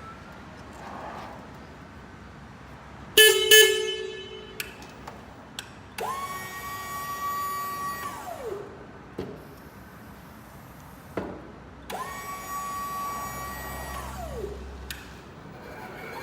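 Electric pallet truck horn giving two short blasts about three seconds in, the loudest sound. The truck's electric motor then whines twice, each time rising to a steady high pitch, running about two seconds and winding down as it stops. Sharp switch clicks come between.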